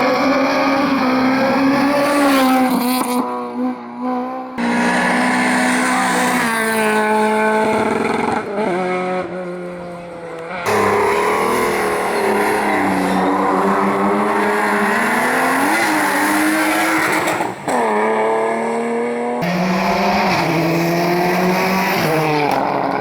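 Competition cars running hard up a hillclimb, engines revving and falling in pitch through gear changes and corners. The sound jumps abruptly from one car to another a few times.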